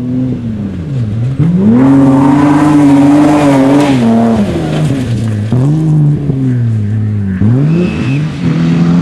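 BMW E30 325i rally car's 2.5-litre straight-six engine running at high revs. The revs drop sharply and climb again several times, as with lifts and gearchanges. It is loudest about two to four seconds in.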